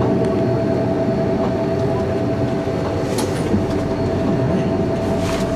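Passenger train running, heard from on board: a steady rumble with a constant hum, and a few brief clicks from the wheels on the track.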